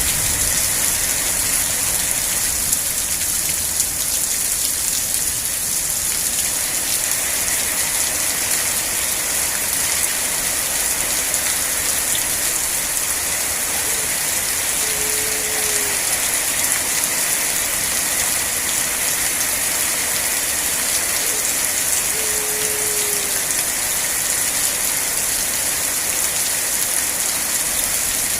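Steady rain with an even hiss of drops falling on surfaces. Twice a short, faint falling tone rises above it, once near the middle and once just after two-thirds through.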